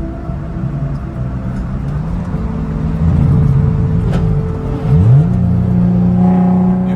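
Car engine running at varying revs, then revving up sharply about five seconds in and holding a steady, higher pitch.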